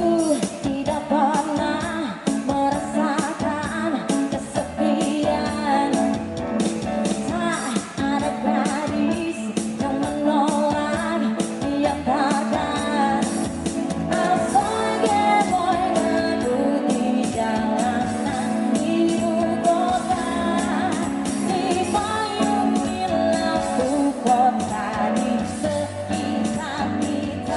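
A band playing a pop-rock song live, a singer over guitar and drums with a steady beat.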